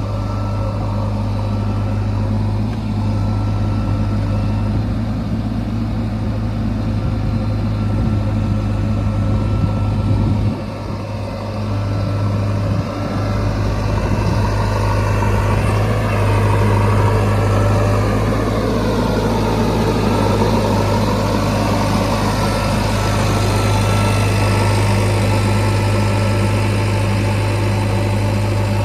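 Diesel engine of a JCB 3DX Xtra backhoe loader running steadily while it works. It dips briefly about ten seconds in, and in the second half a wavering whine rises and falls over the engine.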